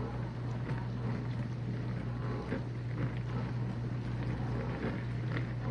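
Whirlpool dishwasher running with a steady low hum and water swishing inside; the drain pump has not yet started.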